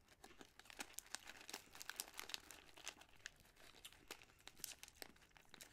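Faint crackling crunches of a small pumpkin-flavoured soft wheat cracker ball being chewed with the mouth closed, many small crunches in quick succession.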